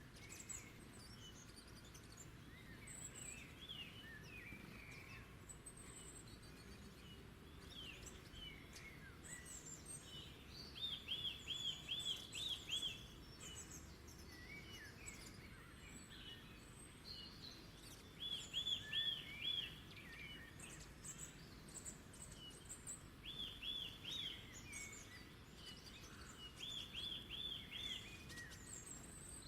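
Several wild birds singing and chirping over a low, steady background rumble. One bird repeats a quick phrase of five or six arched notes four times, about 11, 18, 23 and 27 seconds in; these are the loudest sounds.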